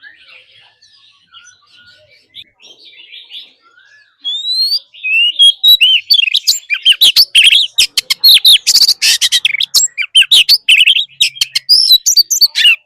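Oriental magpie-robin singing: soft chattering for the first few seconds, then from about four seconds in a loud, varied song of clear whistles, rising slurred notes and quick runs of sharp notes.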